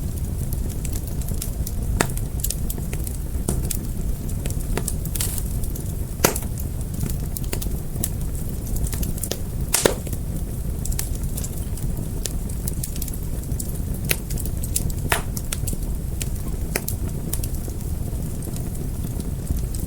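Fire crackling: a steady low rumble of burning with irregular sharp pops and snaps, the loudest about ten seconds in.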